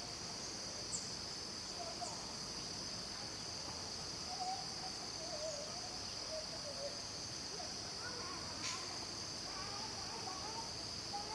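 Steady, high-pitched drone of insects in mountain forest, with a few brief faint chirps above it and one sharp click near the end.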